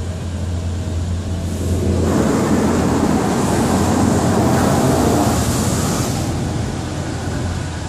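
Automatic car wash water jets spraying over the car, heard from inside the cabin: a rushing hiss that swells about two seconds in and fades near the end, over a steady low hum.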